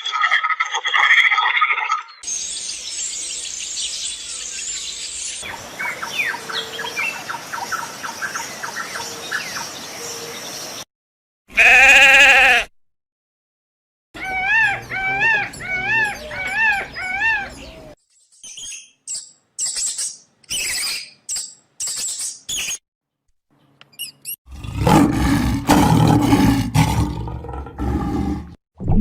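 A run of separate animal calls cut one after another with short silent gaps between them: a short, loud, pitched call, a repeating warbling call, a series of sharp high chirps, and near the end a loud, low, rough call.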